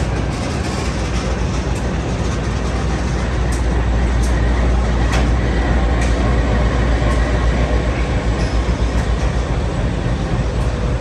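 Diesel locomotives running light engine (no wagons), a steady deep engine drone throughout with a few sharp clicks near the middle.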